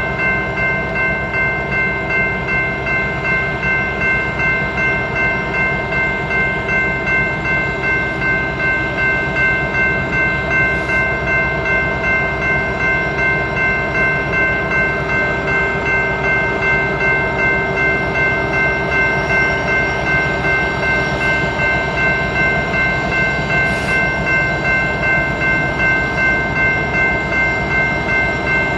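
Railroad crossing warning bell ringing steadily at about two strikes a second, over the low rumble of a train.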